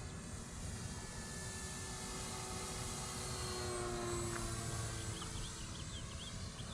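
Electric RC Cessna 182 model plane's motor and propeller whining in flight, running on a newly replaced ESC, its pitch sliding down around the middle as it passes by.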